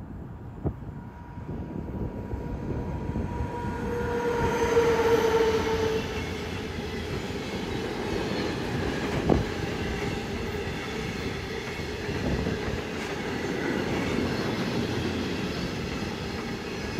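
Freight train of tank wagons rolling past behind an electric locomotive, with a steady rumble of wheels on rail. A humming tone swells as the locomotive goes by about five seconds in, and there is one sharp click from the wheels near the middle.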